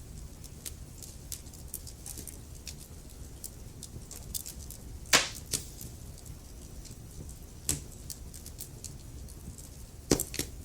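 Wood fire crackling in a fireplace: a steady low rumble of flame with many small ticks and snaps, a loud sharp pop about halfway through and two more near the end.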